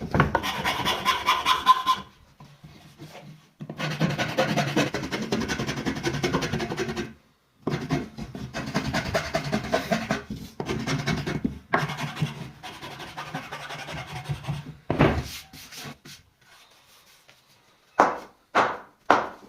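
Wooden cricket bat being worked by hand with an abrasive tool, a dense rapid scraping in runs of a few seconds with brief pauses. Near the end it breaks into a few short, separate strokes.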